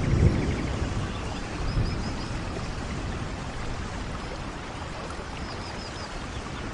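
Steady rainfall, with a low rumble in the first half-second and a smaller one about two seconds in. Faint high chirps come twice, about two seconds in and near the end.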